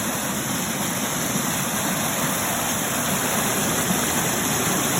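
Creek water running steadily, a constant even rush with no breaks.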